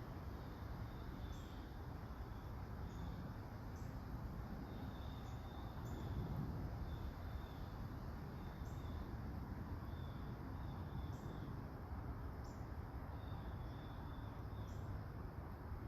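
Faint, steady patter of light rain, with short high-pitched chirps every second or so.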